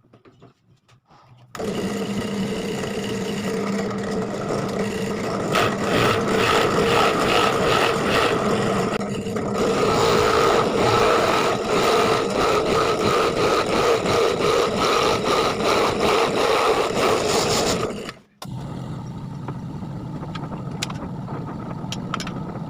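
Electric power tool starting up about a second and a half in and running while it works wood, with a steady motor hum under rough cutting or sanding noise. Near the end it drops out abruptly and a quieter steady run of the tool follows.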